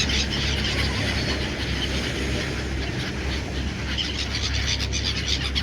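A flock of seagulls calling, many overlapping calls, busiest at the start and again near the end, over a steady low rumble.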